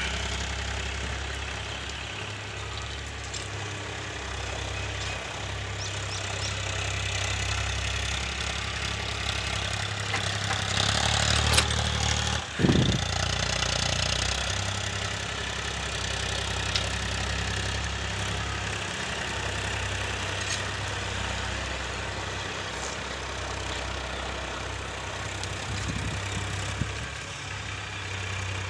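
Tractor diesel engine running steadily while working a field with a cultivator. There is a brief louder surge about twelve seconds in, ending in a short falling sweep.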